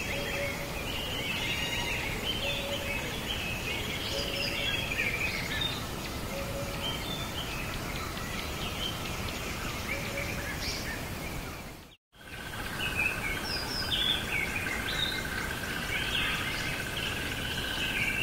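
Birds chirping and calling over a steady outdoor noise bed. About twelve seconds in, the sound cuts out for an instant. It resumes with a steady high drone under the chirps.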